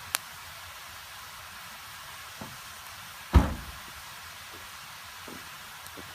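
Small wood fire in a folding grill hissing steadily, with a sharp crack just after the start, a few light knocks, and one heavy thump about three and a half seconds in.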